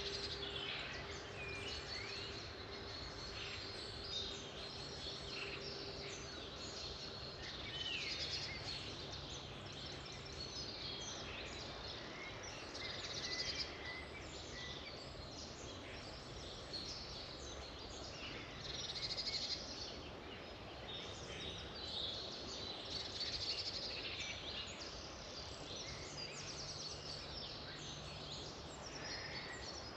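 Several birds singing and calling at once: many short chirps and trills over a steady background hiss.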